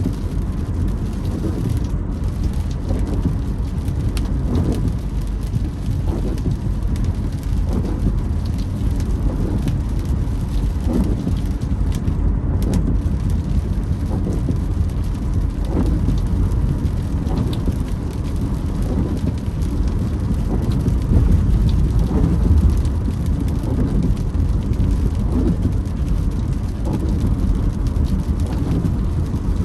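Car driving in the rain, heard from inside: a steady low road-and-engine rumble with rain on the car. Windshield wipers creak across the glass at a regular beat, every second or two.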